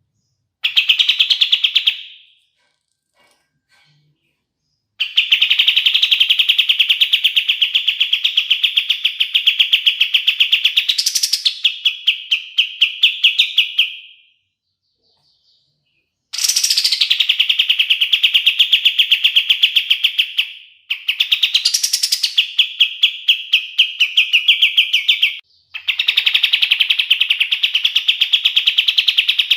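Kapas tembak bird singing its rapid rattling trill in long bouts of several seconds, with short pauses between bouts and a few quick rising sweeps.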